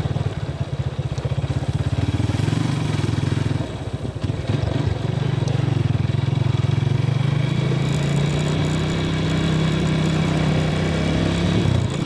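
Honda Tiger's single-cylinder four-stroke engine running as the motorcycle is ridden, heard from the rider's seat. The engine note dips briefly about four seconds in, then picks up again and rises slightly in pitch toward the end.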